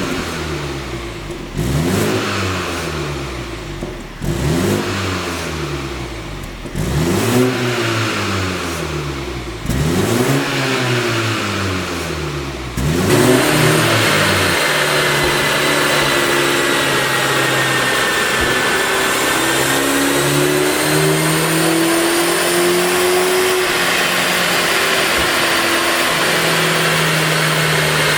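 BMW G20 330i's turbocharged 2.0-litre four-cylinder, running a pop-and-bang tune, revved about six times in a row, each rev rising and falling in pitch. About halfway through it settles into a steady, loud run with a few small shifts in pitch.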